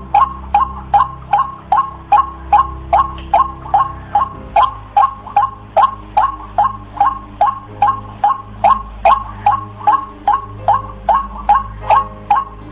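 White-breasted waterhen calling: one short, sharply falling note repeated over and over, about two and a half times a second, steady and monotonous.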